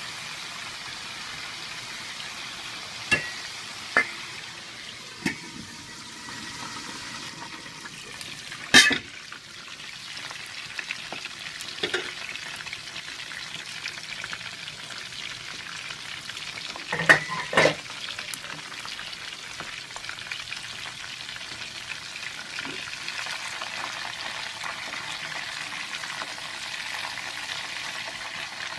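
Marinated chicken pieces frying in hot oil in a wok, a steady sizzling hiss. A few sharp knocks break through it, the loudest about nine seconds in and two close together near seventeen seconds.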